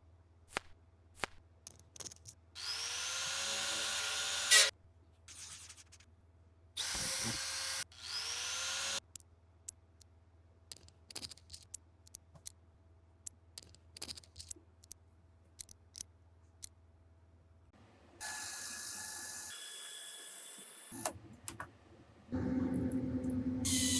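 A small handheld power tool's motor whirring in two short bursts of about two seconds each, its pitch rising as it spins up, with scattered clicks and taps between. Later a steady hiss of noise, and a louder one near the end.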